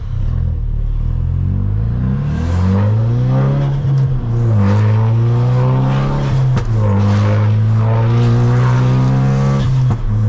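Tuned Ford Focus RS, about 450 hp, accelerating hard through the gears: the engine note climbs steadily, drops sharply at an upshift about four seconds in and again at about six and a half seconds, then climbs once more before a third shift near the end.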